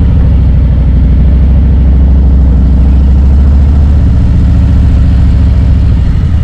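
Harley-Davidson Road Glide's V-twin engine running steadily while riding, a deep, evenly pulsing exhaust note that eases off slightly near the end.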